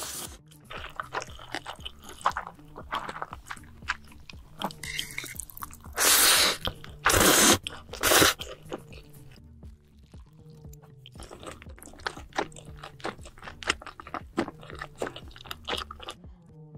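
Close-miked eating sounds, with crisp crunching and chewing, over background music. Three loud bursts of noise come around the middle.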